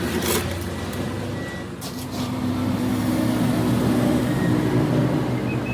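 A machine motor running steadily with a low hum, a higher steady tone joining about two seconds in, and a few short sharp clicks near the start.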